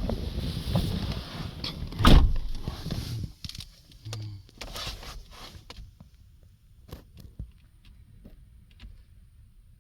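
Strong wind gusting across the microphone, with one loud buffet about two seconds in, then it drops away to quiet with a few small clicks and knocks.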